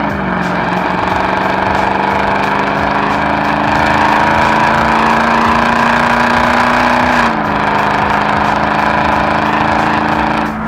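Mercedes E55 AMG's supercharged V8, run without catalytic converters, pulling steadily under load, its note rising slowly for about seven seconds, then dropping at a gear change and holding steady.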